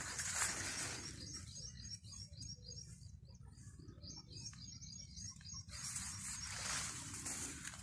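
Small birds chirping, a quick run of short high chirps from about one second in to about six seconds in, over a steady low rumble, with a rustling hiss before and after the chirps.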